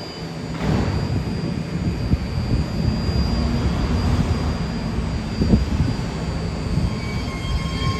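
A 9-car BART train pulling out of the station, its motors whining over a steady rumble of wheels on rail, with more high steady tones from the propulsion coming in near the end.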